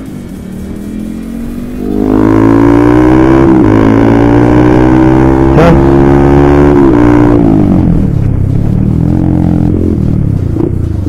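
Honda CBR150R motorcycle engine through an aftermarket exhaust: after a couple of seconds of light riding it opens up loudly, its pitch climbing for about five seconds under hard acceleration, then falls away as the throttle closes.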